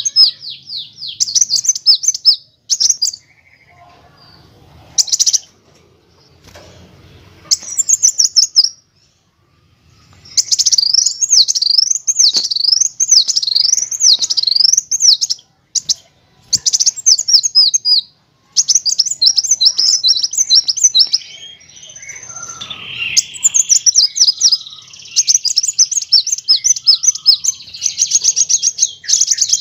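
Kolibri wulung sunbird singing: bursts of high, rapid trills and zigzag sweeping notes, with short pauses between phrases and a fast run of repeated notes near the end.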